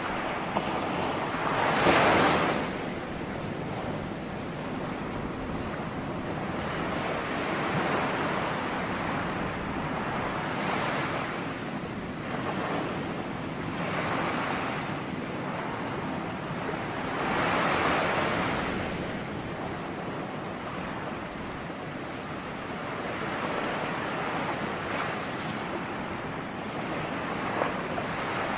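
Ocean waves breaking and washing in, a steady surf hiss that swells with each wave, the biggest breakers about two seconds in and again past halfway.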